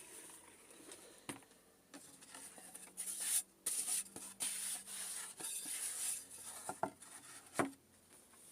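Quiet, irregular rubbing and scraping, with a few sharp knocks.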